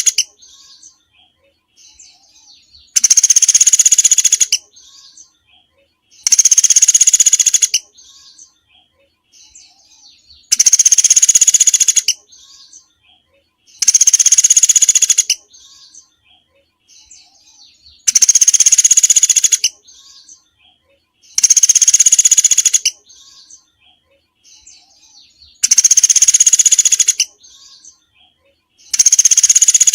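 Recorded songbird song from a masteran (bird-song training) compilation. A loud, buzzy phrase about a second and a half long repeats every three to four seconds, with soft chirps in the gaps.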